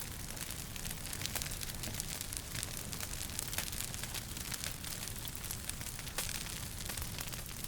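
Wood fire crackling in a fireplace: many quick irregular pops and snaps over a low steady rumble of the flames.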